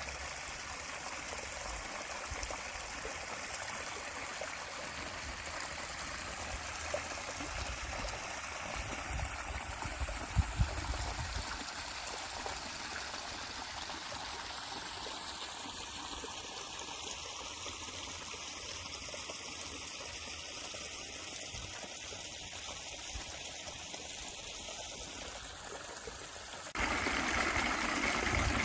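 Small woodland stream trickling and flowing steadily, with a few soft low bumps about ten seconds in. Near the end the sound cuts abruptly to a louder stretch of running water.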